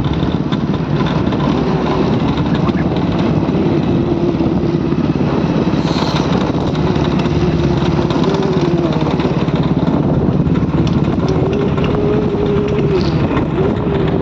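Motorcycle engine running steadily while riding, its pitch wavering slightly up and down.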